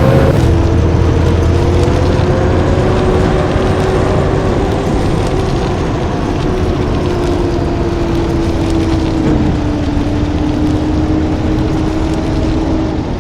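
Blue Bird D3FE bus running loudly, a heavy engine rumble with a steady whine that dips slightly in pitch about ten seconds in.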